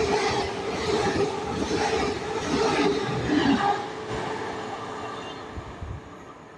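Train passing through on the line, its wheels clattering over the rail joints at about two beats a second under a steady hum, then fading away after about four seconds.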